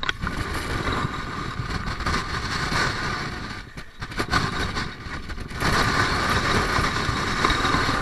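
Strong wind buffeting the microphone: a continuous rumbling rush that dips briefly about four seconds in and grows louder from about five and a half seconds.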